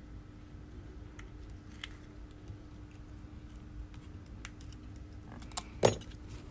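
Metal blade scraping leftover glass shards and adhesive off an iPhone 11's rear housing: faint scattered ticks and scratches, with a louder clatter of clicks near the end.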